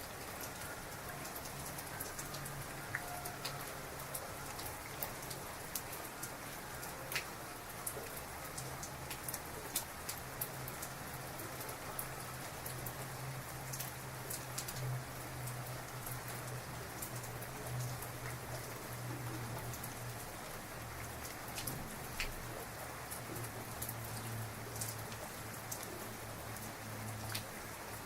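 Heavy rain falling steadily: an even hiss with many close drops striking as sharp ticks, over a low rumble that is strongest in the middle.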